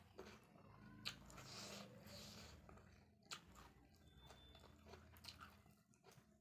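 Faint chewing and mouth sounds of a person eating spicy chicken curry with rice, with a few soft clicks spread through it.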